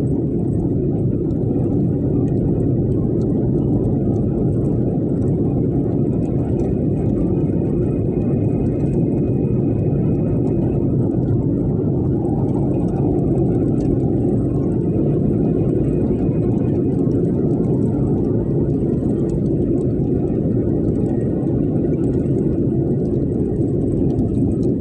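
Steady low rumbling noise at an even level, with little treble.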